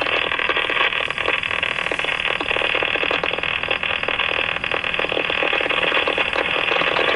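Steady crackling static hiss from a railroad radio scanner with its squelch open, cut off sharply above the voice band.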